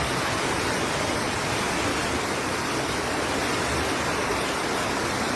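Floodwater rushing and pouring steadily, a continuous even wash of water noise.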